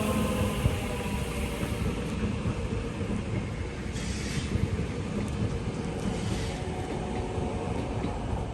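Electric train running through the station: a steady rumble of wheels on the rails, with a falling motor whine that fades in the first second and two short hisses near the middle.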